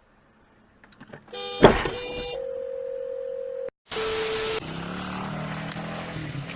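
Near silence, then a sudden bang about a second and a half in, followed by a steady electronic tone for about two seconds. A short burst of hiss comes near the middle, then a low hum.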